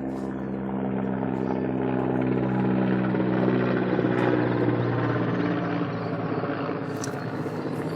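A motor or engine running with a steady hum that grows louder toward the middle and eases off near the end.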